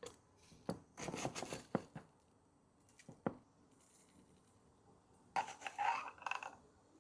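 Kitchen handling noises from containers and packaging: a run of short clicks, clinks and rustles, with a sharp click about three seconds in and another busy burst of rustling and clinking near the end.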